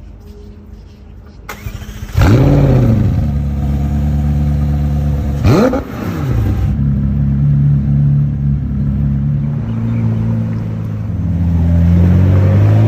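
McLaren Elva's twin-turbo V8 starting up. It fires with a loud rev flare about two seconds in, is blipped once more a few seconds later, settles into a steady idle, and revs rise again near the end.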